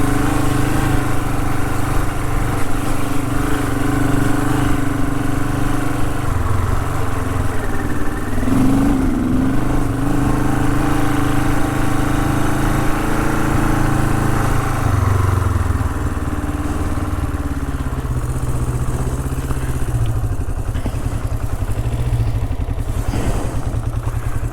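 Honda CL450's parallel-twin engine running at low revs while the motorcycle is ridden, the engine note rising and falling with the throttle and settling to a lower note about fifteen seconds in.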